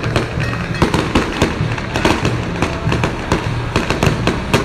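Firecrackers and fireworks going off in an irregular run of sharp cracks over a steady low rumble.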